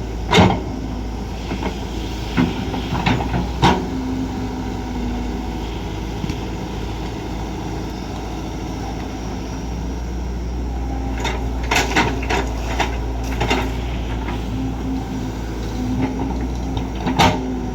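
Kobelco SK200 excavator's diesel engine running steadily under work, with scattered sharp knocks and clanks in groups: a few in the first four seconds, a cluster about two-thirds of the way through, and one more near the end.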